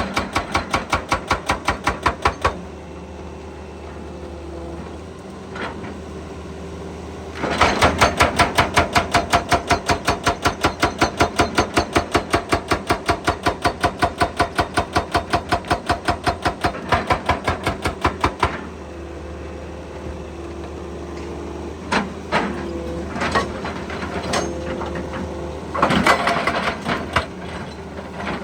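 Excavator-mounted hydraulic breaker hammering in rapid, evenly spaced blows, several a second: briefly at the start, then again for about eleven seconds in the middle. Between the spells the excavator's engine runs steadily, with scattered knocks and clanks near the end.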